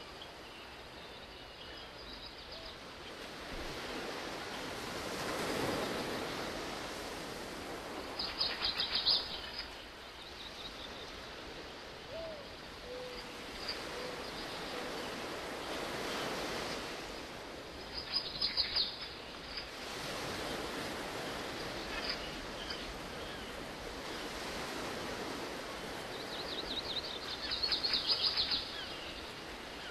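Songbirds chirping in three short, rapid high trills over a steady outdoor hiss that slowly swells and fades.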